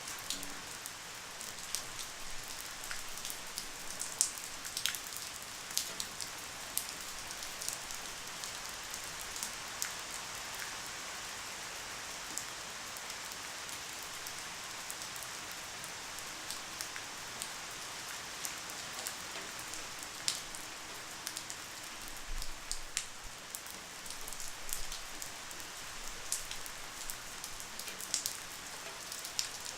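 Light, steady rain: an even hiss with scattered individual drops ticking sharply throughout.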